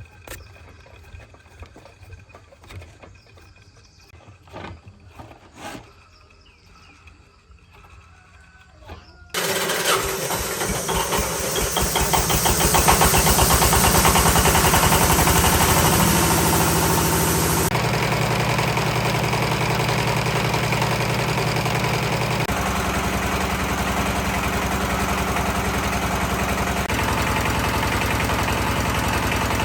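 A few light clicks and knocks, then about nine seconds in an engine starts abruptly, picks up speed over the next few seconds and settles into a steady run, presumably the restored concrete mixer's engine.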